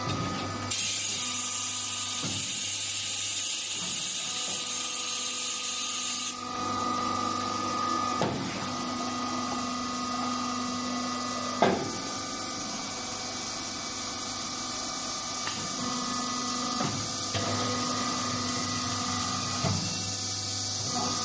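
Wood-shaving baling machine running: a steady mechanical hum with a hiss for about the first six seconds, then a higher tone that comes and goes, with a few knocks, the loudest about twelve seconds in.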